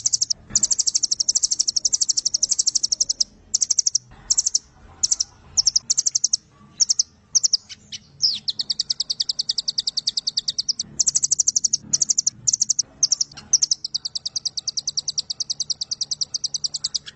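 Velvet-fronted nuthatch (rambatan) singing long, very rapid high-pitched trills: a long run of sharp repeated notes, then a string of short bursts, and another long trill starting about eight seconds in.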